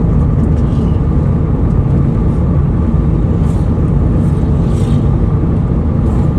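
Steady low rumble of a car's engine and tyres at highway speed, about 105 km/h, heard from inside the moving car.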